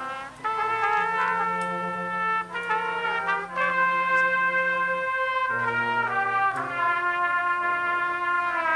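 Brass band playing a slow tune in long held notes, trumpets on the melody over a low brass line, with the chord shifting every second or two.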